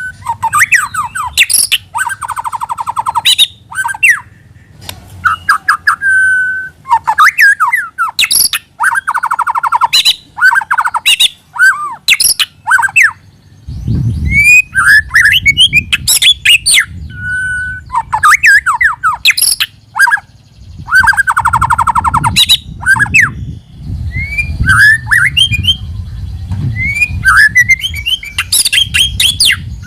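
White-rumped shama singing a loud, varied song: clear whistles, sliding notes and rapid rattling trills, one phrase after another. A low rumble sits underneath from about halfway through.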